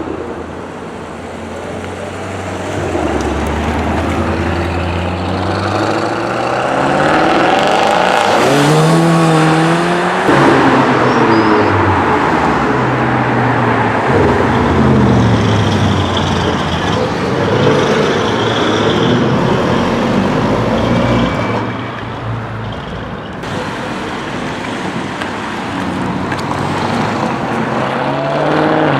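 Straight-piped Audi S7 Sportback exhaust, loud, revved again and again, its pitch climbing and dropping between low rumbling stretches.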